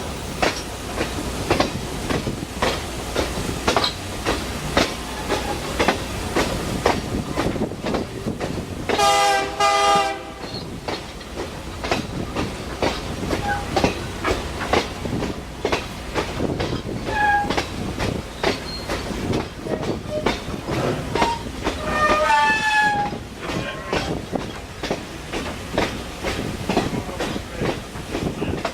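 Passenger train running, its wheels clicking steadily over rail joints. The train horn sounds for about a second and a half around nine seconds in, and a shorter horn-like tone comes about 22 seconds in.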